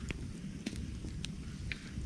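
Wood campfire crackling: about four sharp pops and snaps over a low, steady rumble of the burning fire.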